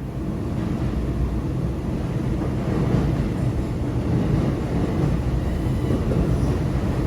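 NJ Transit commuter train approaching: a low rumble that grows steadily louder.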